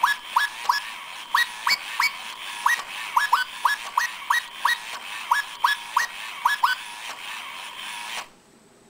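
Chirpy Chi robot bird toy playing one of its songs: a string of short electronic chirps, each sliding quickly up in pitch, about three a second over a steady hiss. The chirps stop about two-thirds of the way through, and the hiss cuts off suddenly a little later.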